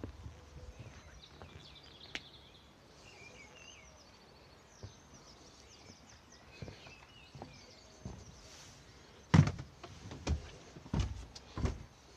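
Birds chirping faintly over a quiet background. From about two-thirds of the way in come a series of sharp knocks and thumps, the first the loudest.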